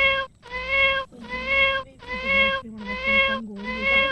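Newborn Persian kitten mewing over and over, about six even, flat-pitched calls, each roughly half a second long, at a steady pace of a little more than one a second.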